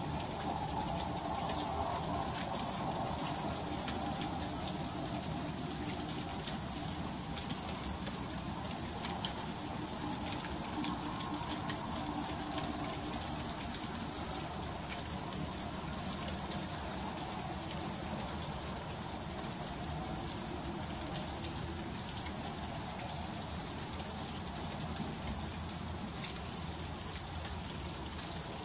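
Freezing rain falling steadily in an ice storm: a constant hiss with many small ticks of drops striking.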